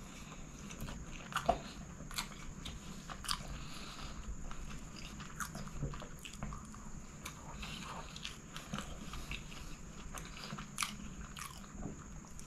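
Close-miked chewing of chicken kottu roti eaten by hand, a steady run of irregular clicks.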